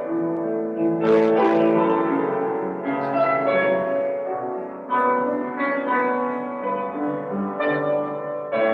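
Slow, instrumental piano music: sustained chords, with a new chord struck every second or two.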